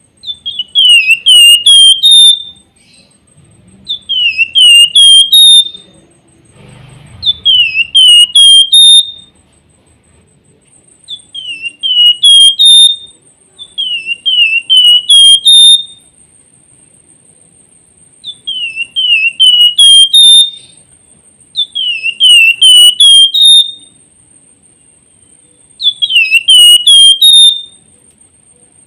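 Flamboyan (Javan fulvetta) singing: loud whistled phrases, each a quick run of four or five down-slurred notes, repeated about every three seconds.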